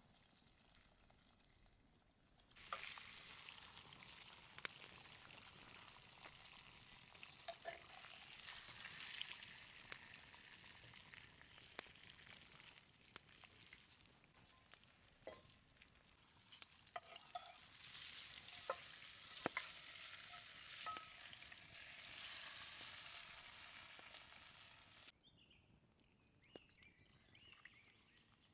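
Ossobuco beef shank searing in a hot pan: a loud sizzle with scattered sharp pops of spattering fat. It starts suddenly a few seconds in as the meat goes into the pan, dips briefly about halfway through, then swells again and cuts off suddenly near the end.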